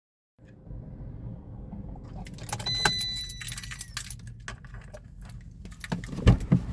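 Keys jangling and rattling inside a parked car over a low steady rumble, with a short beep about three seconds in and a few thumps near the end.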